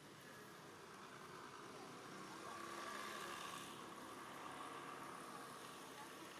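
Faint motor vehicle running, growing louder from about two seconds in and then easing a little.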